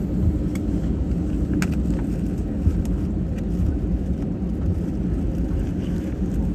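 Steady low rumble inside the cabin of a SriLankan Airlines Airbus A330-300, with a faint steady hum and a few light clicks and rattles.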